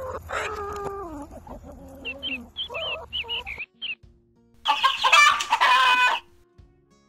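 Domestic chickens clucking, with pitched calls falling in pitch and short high chirps. About five seconds in comes one loud drawn-out call lasting about a second and a half. Faint music near the end.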